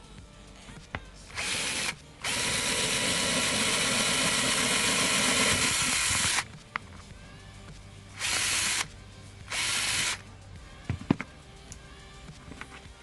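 A small electric hand drill running in four bursts: a brief one, one long run of about four seconds, then two short ones. It is drilling holes into the roof of a die-cast toy car. A few small clicks follow near the end.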